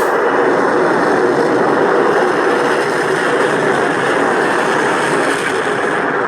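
Rocket engines firing at liftoff: a loud, steady rushing noise.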